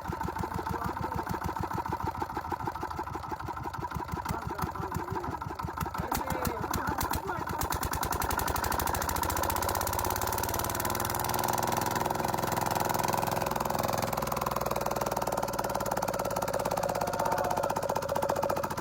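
Diesel engine chugging with an even, slow beat, then picking up speed about seven or eight seconds in and running faster and steadier, slightly louder.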